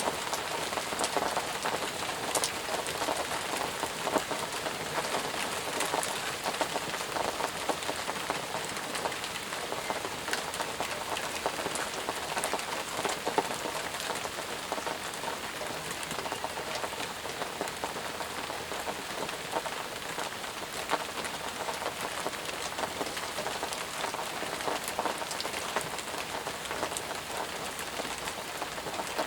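Intense, steady rain falling, with many separate drops ticking sharply close by.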